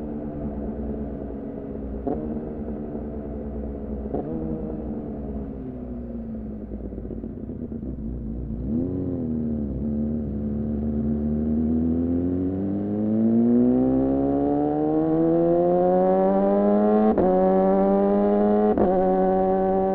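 2014 Yamaha R6 inline-four with an R9 titanium muffler on a Leovince header, heard from on board. The engine holds a steady note, eases off, gives a short blip about nine seconds in, then pulls hard with the pitch climbing. Brief cuts in the note near the end are quickshifter upshifts.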